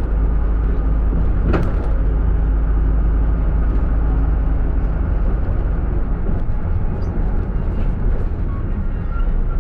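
Route minibus engine and road noise, a steady low rumble, with one sharp click or knock about a second and a half in.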